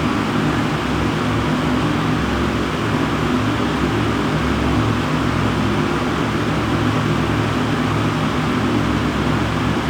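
Panasonic bathroom exhaust fan running steadily, drawing air: an even rush of air noise with a low hum underneath.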